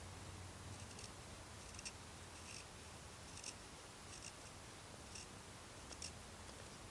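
A knife carving wood: a series of short, faint, dry shaving strokes, about seven of them, a little under a second apart.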